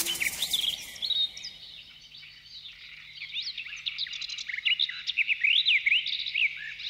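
Birds chirping and twittering: many quick rising and falling chirps that thin out about two seconds in and grow dense again toward the end.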